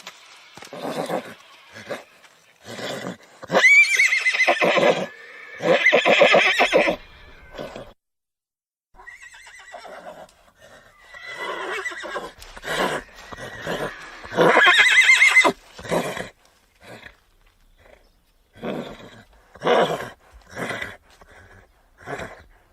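Horse neighing: three loud whinnies, about 4, 6 and 15 seconds in, each starting high and falling in pitch, with many shorter, softer calls between them.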